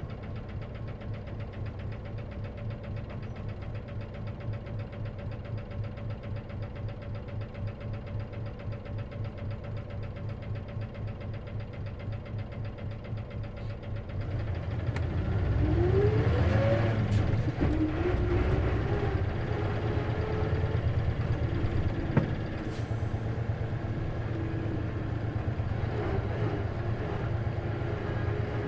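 Isuzu KC-LV380N city bus diesel engine heard from inside the cabin, idling with a steady pulse, then speeding up about halfway through as the bus pulls away, with a whine rising in pitch and then a steady drive. The bus makes an unusual noise that the uploader suspects may come with its manual transmission.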